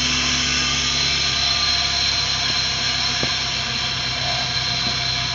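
Suzuki APV minivan's four-cylinder petrol engine idling steadily, heard from inside the cab. It has just been refilled with fresh oil and started to circulate it, and it runs smoothly ("swabe").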